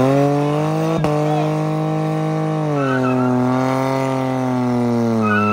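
V8 car engine revved hard and held at high revs under the load of a tug-of-war pull, the revs sagging slightly about three seconds in and then holding steady. A sharp click comes about a second in.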